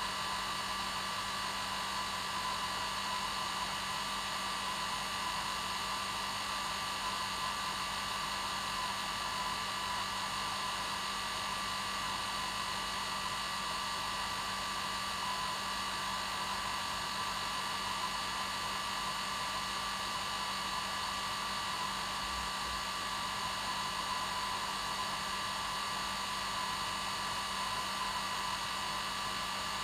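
Hair dryer running continuously at one steady speed: an even blowing hiss with a steady motor whine.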